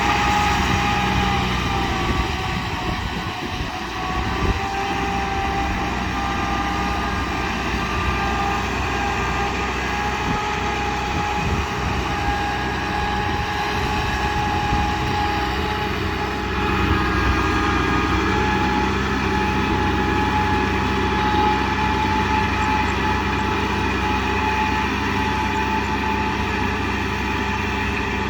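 Kubota M6040 tractor's diesel engine running steadily, with a high steady whine over the engine note.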